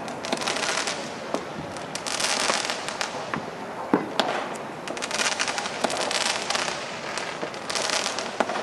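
Fireworks going off: scattered sharp bangs and pops over repeated bursts of crackling.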